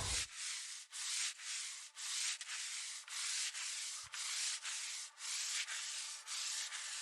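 Rhythmic sanding strokes, about one a second, each a rough hiss with a short break between.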